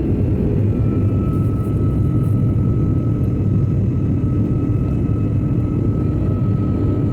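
Airbus A330 cabin noise in flight: a steady rumble of jet engines and airflow with a thin, steady high whine above it.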